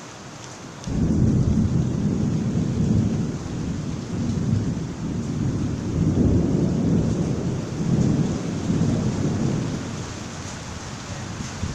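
Rolling thunder over steady rain: a low rumble breaks in suddenly about a second in, swells and ebbs several times, and fades back into the rain hiss near the end.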